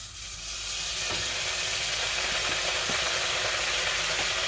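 Washed, wet nettle leaves tipped from a metal colander into hot oil where onion, chilli and garlic are stir-frying: the sizzle swells over about the first second into a loud, steady hiss. A few light knocks of a wooden spoon against the colander sound over it.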